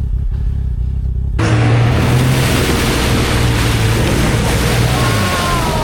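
Snowmobile engine idling, then revved hard about a second and a half in, the track churning through slush and snow with a loud rushing spray for about four seconds, the revs falling away near the end.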